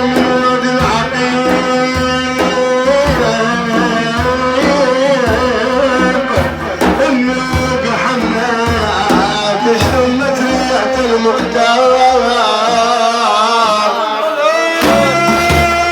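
Sufi devotional music: hand drums beat a steady rhythm under a long, ornamented melodic line. The drums drop out briefly near the end, then come back in.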